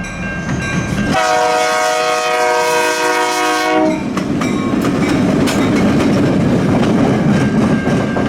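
Two old four-axle CN diesel locomotives going by: a train horn sounds one long blast of about two and a half seconds starting about a second in, then the diesel engines rumble and the wheels clack over the rail joints.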